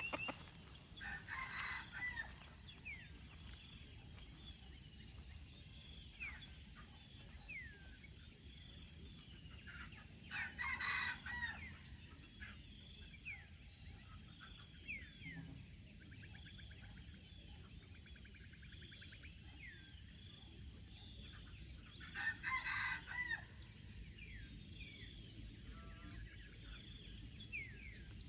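A rooster crowing three times, about ten seconds apart, with small birds chirping and a steady high-pitched drone behind.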